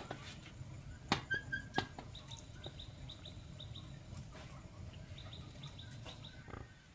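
Small birds chirping in short, repeated calls in the background, with a few sharp taps between one and two seconds in.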